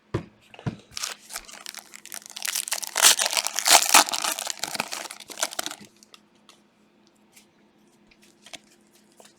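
Plastic trading-card pack wrapper being torn open and crumpled, a dense crinkling and crackling that lasts about five seconds and is loudest in the middle, followed by a few faint ticks as the cards are handled.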